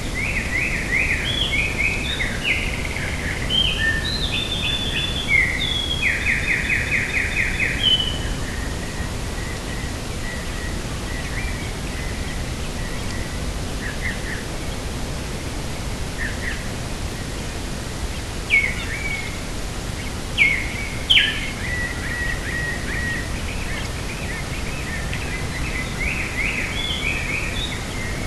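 A songbird singing varied phrases ending in a fast trill, then a few short calls and a final burst of song near the end, over a steady rushing background noise.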